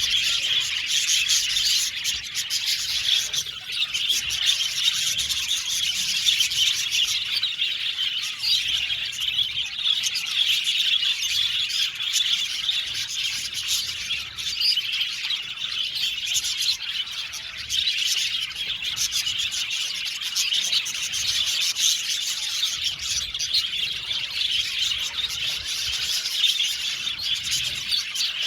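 A colony of budgerigars chirping and chattering together, many birds at once, a continuous dense twittering with occasional squawks.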